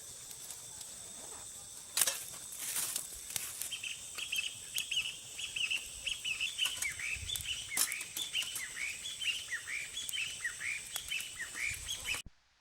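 Birds chirping in rapid short repeated calls, several a second, over a steady high whine, with a few knocks or rustles early on. The sound cuts off suddenly near the end.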